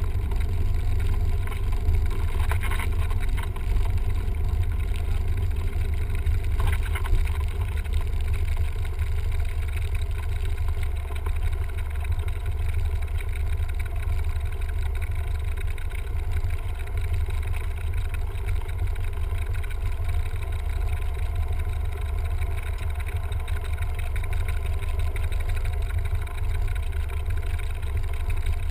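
Cessna 172M's four-cylinder Lycoming engine and propeller running steadily, a constant deep drone with no change in pitch.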